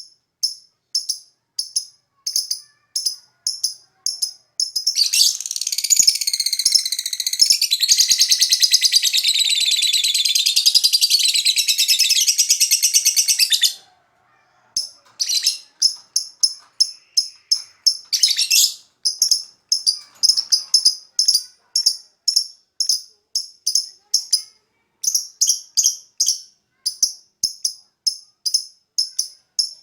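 Lovebird calling: short, sharp, high chirps repeated about twice a second, broken from about five seconds in by one long unbroken trilling song lasting roughly eight seconds, then the chirping resumes.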